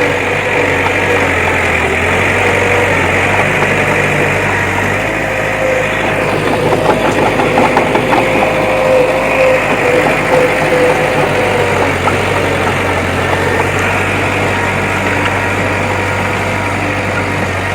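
Diesel engine of heavy earthmoving machinery running steadily, with some clattering about six to eleven seconds in.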